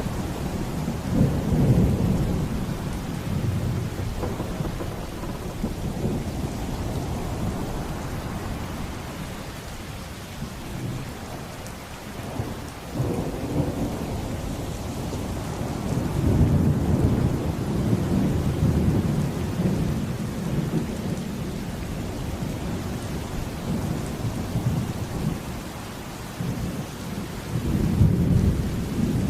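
Steady heavy rain with thunder rumbling through it in several long rolls: one a little over a second in, a longer one in the middle, and another near the end.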